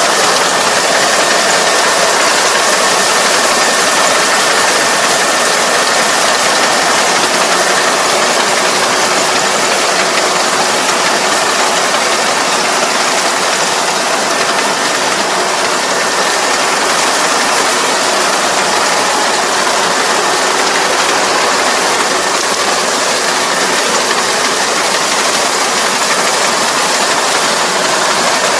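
ER470 combine harvester running steadily under load, a dense wash of engine and machinery noise with a faint steady whine.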